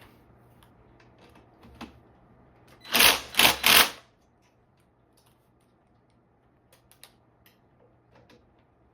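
Tools working on the brake caliper screws of an e-bike: a few faint clicks, then three short, loud bursts of mechanical clatter close together about three seconds in.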